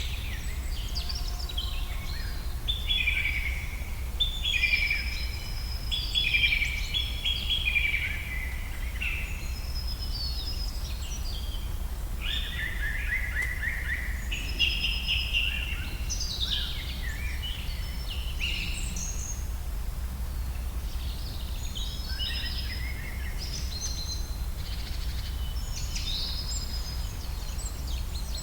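Several songbirds singing in a forest, with overlapping chirps and trilled phrases going on throughout, over a steady low rumble.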